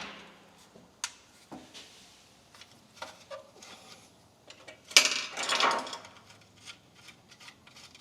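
Scattered light clicks and taps of small engine parts and hand tools being handled at the workbench, with one louder clatter and scrape about five seconds in.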